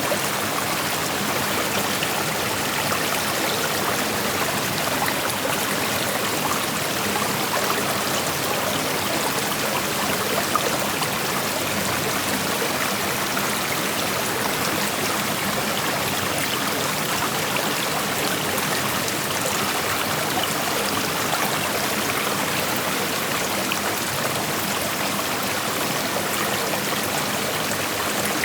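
Creek water flowing and rushing over stones in a steady, even wash of sound, with splashing and trickling detail.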